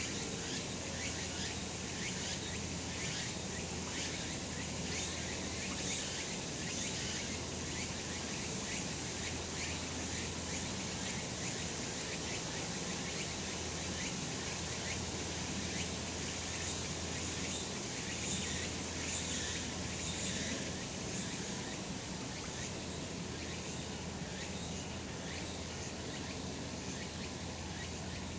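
Cicadas singing in a dense summer chorus: a steady, high-pitched buzz made of fast, closely packed pulses.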